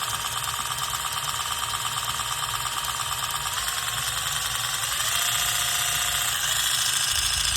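Ridgid 4-mode cordless impact driver running free without load, a steady motor whine whose pitch steps up slightly twice partway through. The bit spinning in its collet has wobble that can be heard, worse than on a Milwaukee Gen 4 with the same bit.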